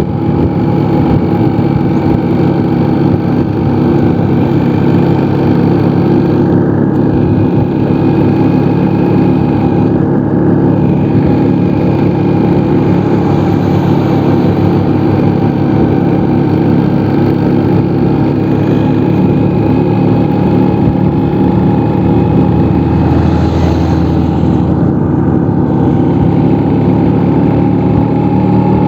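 Vespa scooter engine running steadily as the scooter rides along at an even, unhurried pace.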